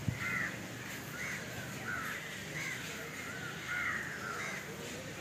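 Birds calling over and over, short arched calls about two a second in uneven runs, with a single dull low thump right at the start.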